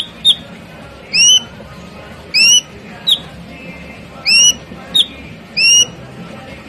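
Ashy drongo singing: a string of upward-sweeping whistled notes, about one a second, alternating with short sharp chips.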